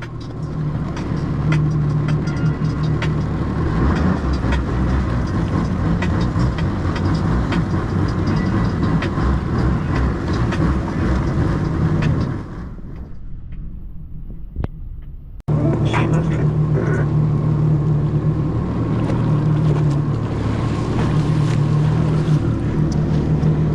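1800cc jet ski engine running hard under throttle, with the rush of water and wind over it. About twelve seconds in the sound falls away for about three seconds, then comes back suddenly at full level.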